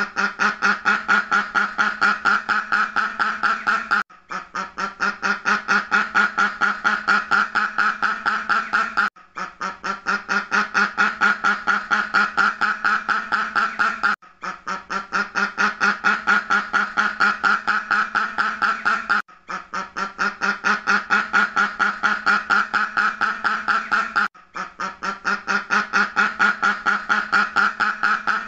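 Duck quacking in a rapid, unbroken run of calls, several a second. The same stretch of about five seconds repeats as a loop, with a brief silent gap between repeats.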